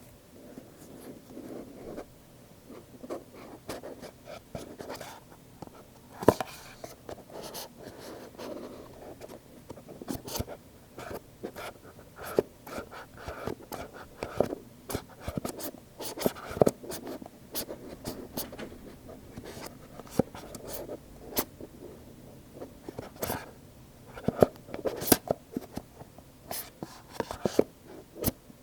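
Fingers handling stiff Apple product boxes: irregular sharp taps and clicks on the cardboard over soft scratching and rubbing, with a few louder knocks.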